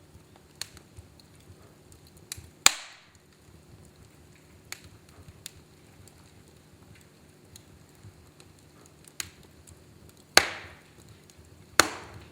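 Wood fire in a fireplace crackling, with scattered small ticks and three loud sharp pops, one about two and a half seconds in and two close together near the end.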